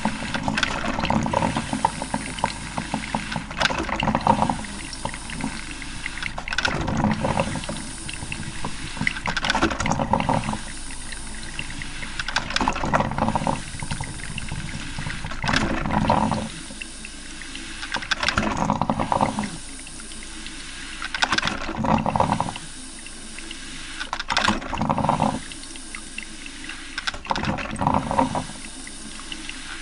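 Coffee maker brewing, gurgling and sputtering in surges every two to three seconds as hot water is pushed through, with quieter gaps between the surges later on.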